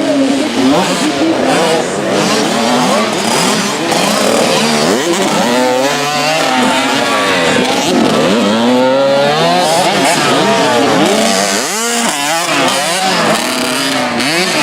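Several 65cc two-stroke motocross bikes revving together, their engine notes overlapping and rising and falling in pitch as the riders throttle on and off.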